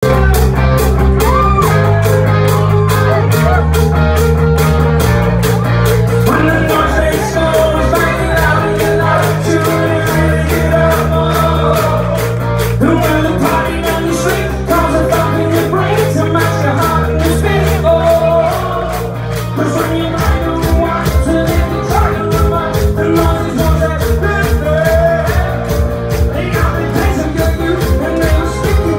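Hard rock band playing live: guitars, bass and drums driving a steady beat under a male lead vocal. About two-thirds of the way through the band drops back briefly, then comes back in with heavier drums.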